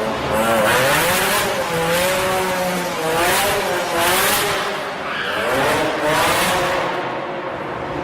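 Car tyres squealing in a long, wavering tone over the noise of a running engine.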